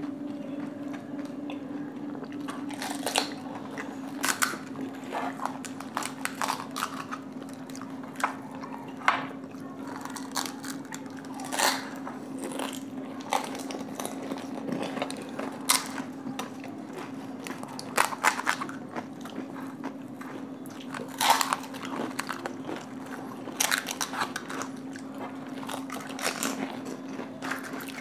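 Crisp panipuri (golgappa) shells being bitten and crunched, with chewing: many sharp, irregular crunches over a steady low hum.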